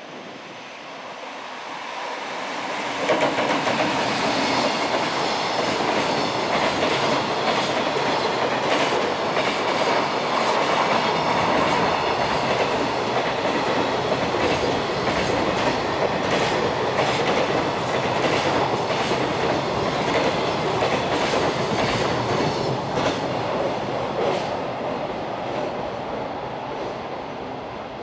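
Fast container freight train hauled by an EF200 electric locomotive passing through at speed. It builds up as it approaches, with a sudden jump in loudness about three seconds in as the locomotive goes by. A long run of container wagons follows, wheels clicking over the rail joints, and the sound fades near the end.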